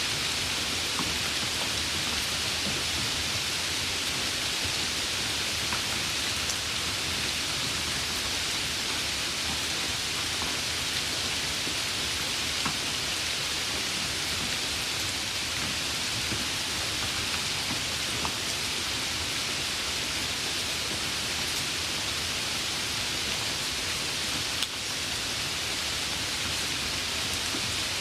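Steady rain falling, an even hiss with scattered single drops ticking through it and one sharper tap about 25 seconds in.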